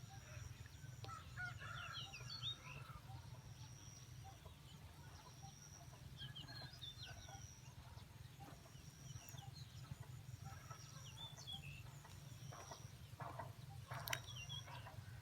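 Chickens clucking faintly, with scattered short chirps, over a steady low hum. A thin high note repeats about once a second.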